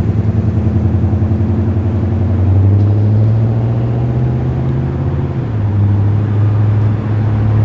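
Holden Calais (Commodore) engine running at low revs as the car drives out, a deep steady note that dips briefly about five and a half seconds in.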